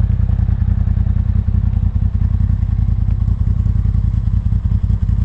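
Vehicle engine running at a steady speed, a deep rumble with fast, even firing pulses.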